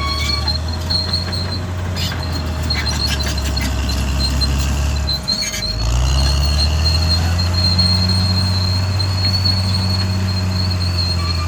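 Caterpillar D6R XL bulldozer's diesel engine running hard, with squealing and clanking from the steel tracks. Just past five seconds the engine note dips briefly, then picks back up and climbs as it takes the load again.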